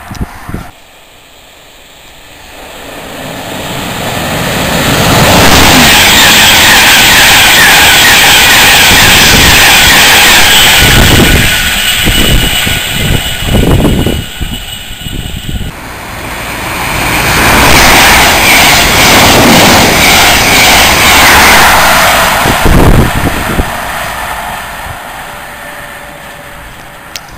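Trains running through the station at speed. A loud rush of wheels and air builds over a few seconds and holds, with clattering near the end, then breaks off suddenly. A second loud passing swells and then fades away.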